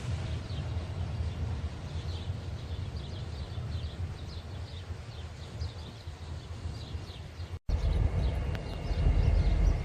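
Low, steady rumble of a Norfolk Southern freight train on the track, with short high chirps several times a second over it. A brief dropout near the end is followed by a louder rumble with a thin steady high tone.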